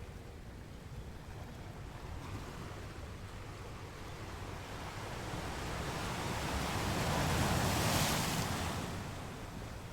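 Ocean waves on a beach. One wave builds from about halfway through, breaks with a hissing rush near the end, then fades.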